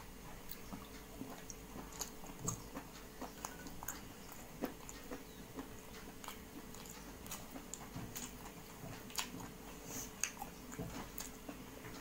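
Faint chewing and biting, with scattered short wet mouth clicks, of a person eating chicken curry.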